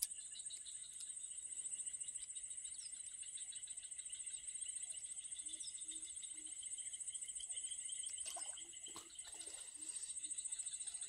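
Steady high-pitched chorus of insects trilling, with a few faint low calls from about halfway on.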